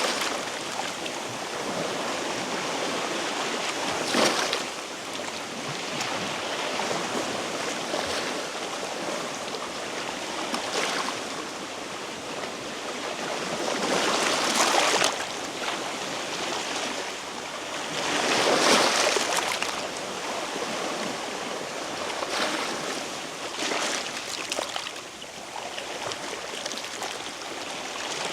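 Small sea waves washing and splashing against shoreline rocks, swelling louder every few seconds.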